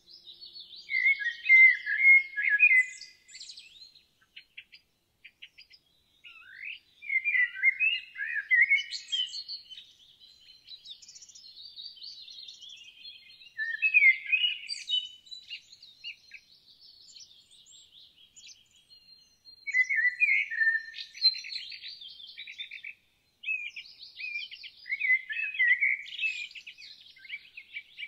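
Songbirds singing: a loud warbling phrase every five or six seconds, with softer chirps and quick trills between.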